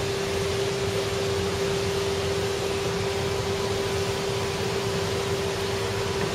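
Steady machine drone: a constant hum over an even hiss, unchanging throughout.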